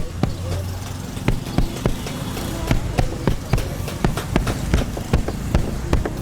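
A run of sharp knocks, irregularly spaced at about two a second, from work on a sofa's frame.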